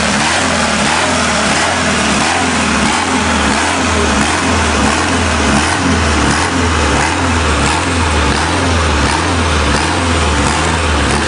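Diesel engine of a mini tractor puller running steadily after a cold start, with an even, low pulsing beat.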